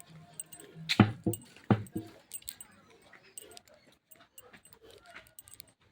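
A dog barking, with the two loudest barks about a second in and under a second apart, each followed by a smaller one.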